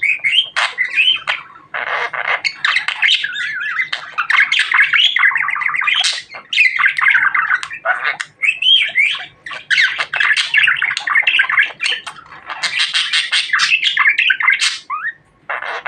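Budgerigar chattering and warbling almost without pause: a fast jumble of chirps, squawks and short whistles, with brief breaks about a second and a half in and near the end.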